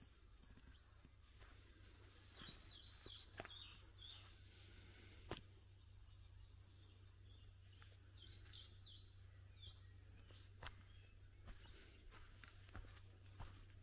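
Faint songbird chirping: two bursts of quick falling chirps, about three seconds in and again about nine seconds in, over a low steady rumble, with a few soft footsteps.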